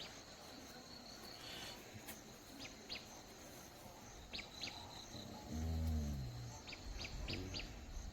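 Short high chirps from small animals, coming in quick pairs and a run of four, over a steady outdoor hiss. A brief low, falling voice-like sound comes about five and a half seconds in.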